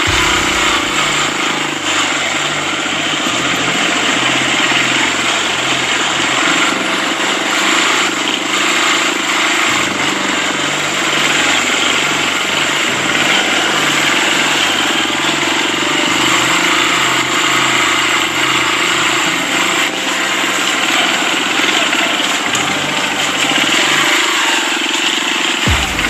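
Motorcycle engine running while riding, its note shifting up and down with the throttle, under a heavy rush of wind and road noise.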